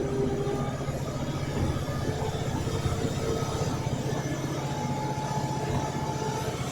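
A vehicle engine running steadily with a low, even hum, with a few faint steady whining tones above it.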